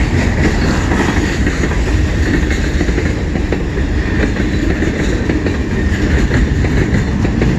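CN freight train passing close by: a steady, loud rumble of the train with wheels clacking over the rails.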